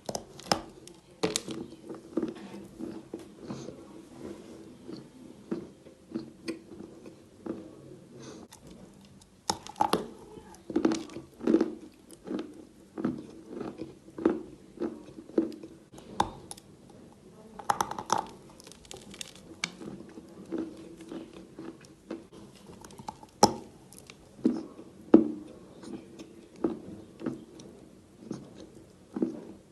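Close-up biting and chewing of chalk: irregular sharp crunches, with several louder bites in clusters.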